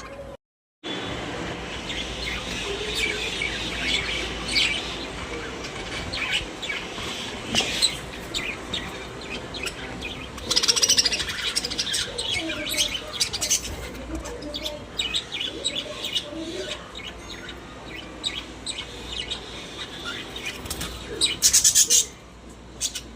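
Budgerigars chattering, with a continuous stream of chirps and warbles. The sound breaks off briefly just after the start and has louder bursts around the middle and near the end.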